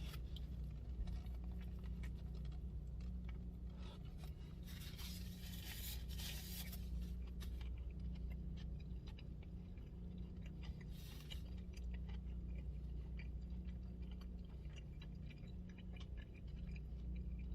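A man chewing a burger with his mouth closed, with faint clicks of chewing and brief rustling bursts about five seconds in and again near eleven seconds, over a steady low hum.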